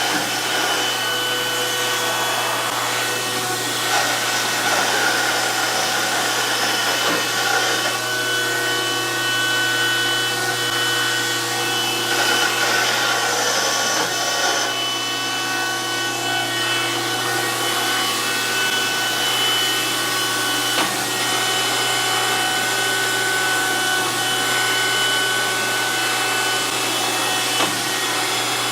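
DoAll 14-inch surface grinder running steadily: a constant motor hum under the wide hiss of the abrasive wheel grinding a steel vise part, with faint whining tones that come and go.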